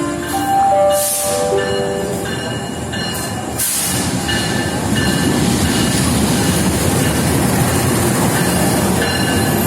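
Locomotive-hauled train passing: wheels running on the rails, with thin squealing tones over the noise. There are two short hisses in the first few seconds. The rumble thickens about four seconds in and then holds steady.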